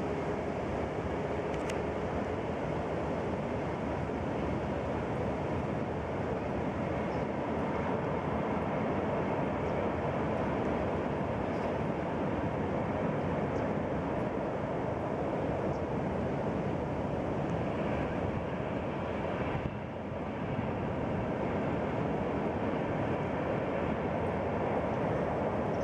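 Freight train running across a steel arch railway bridge: a steady, even noise of the wagons rolling on the rails, heard from across the river.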